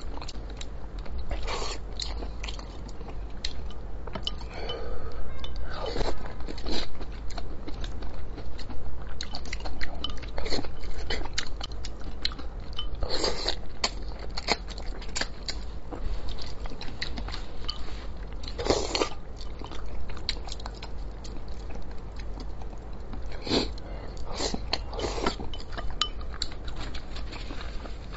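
Close-miked mouth sounds of a person eating spicy braised fish: wet chewing and lip smacks, with irregular short clicks scattered throughout and a few louder smacks around the middle.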